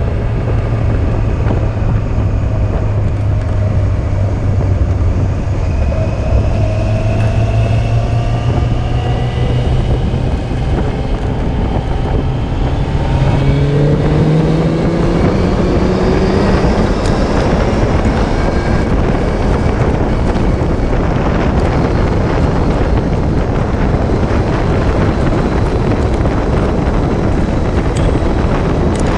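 Yamaha Fazer 600's inline-four engine pulling under way, its pitch rising slowly and then climbing faster about halfway through as the bike accelerates. After that, wind rushing over the microphone covers the engine.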